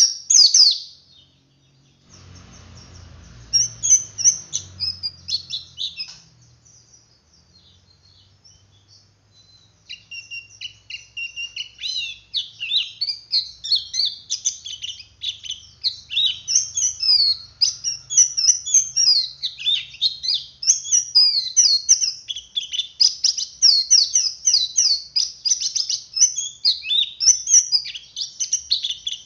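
Male white-eye (pleci) singing a fast, high, chattering twitter, the continuous 'ngeriwik' song. After a few chirps over a low rumble and a short lull, the song runs almost without a break from about a third of the way in.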